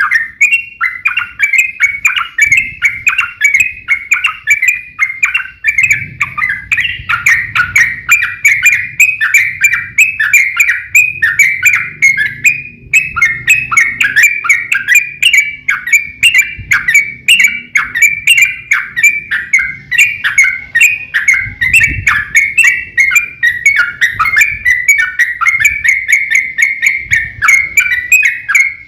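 Yellow-vented bulbuls (trucukan) singing in a long, unbroken run of rapid chirping notes, several per second, in the loud, fast 'ropel' style of a duelling bird.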